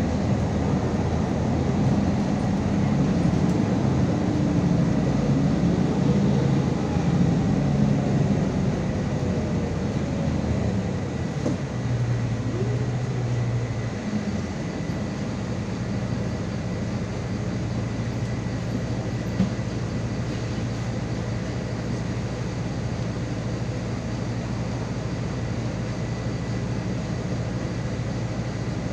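MAZ 216 articulated city bus heard from on board, with engine and road noise. The engine note shifts up and down through the first half, then settles to a steady low hum. There is one short click a little past the middle.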